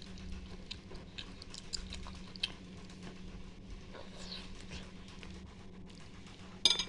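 Close-up mouth sounds of someone chewing a mouthful of noodles and fried egg, with small scattered wet clicks.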